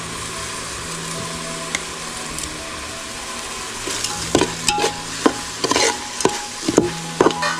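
Onion-tomato masala sizzling steadily in a steel pot as whole spices go in. From about four seconds in, a steel spoon stirs the mixture, clinking and scraping against the pot again and again.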